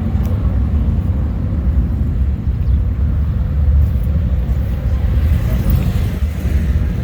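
Low, steady rumble of Harley-Davidson motorcycle engines running.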